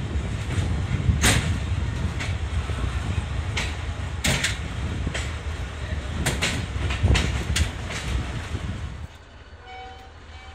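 Passenger train running on the track: a steady low rumble broken by sharp clicks and clanks from the wheels on the rails. About nine seconds in it drops suddenly to a much quieter hum.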